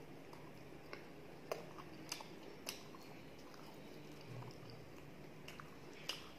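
Close-miked chewing of luchi, the soft puffed fried bread, with the mouth closed. A handful of sharp wet mouth smacks and clicks stand out, the loudest about a second and a half in and again just before the end, over a faint steady hum.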